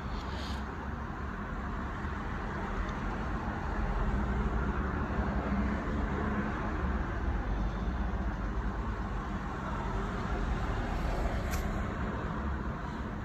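Isuzu D-Max diesel engine idling steadily, a low even rumble, with a faint click or two.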